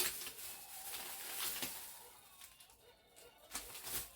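Rustling and light clicking of packaging and small items being handled while a box is sorted through, coming in short spells.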